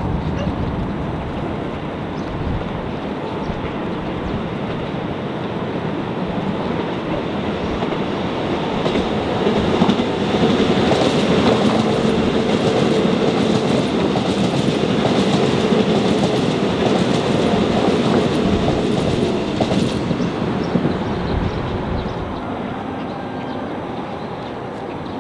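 Electric commuter train passing: the rumble swells to its loudest through the middle, with the wheels clicking over rail joints, then fades away.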